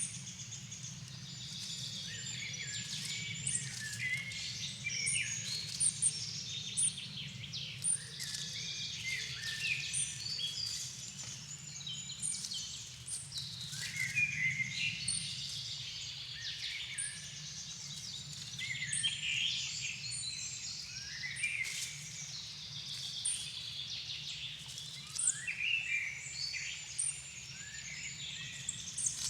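Dusk chorus of several songbirds singing overlapping phrases, with a short high note repeating about once a second, over a steady low rumble.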